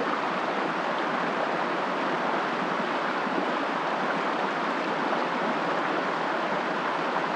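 Steady, even rushing noise with no distinct events, like running water or wind in the forest.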